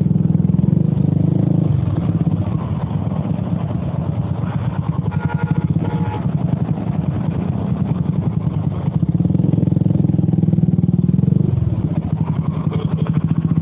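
Single-cylinder engine of a Bajaj Avenger 220 motorcycle running at low revs with a steady low pulsing as the bike crawls over rocks and mud.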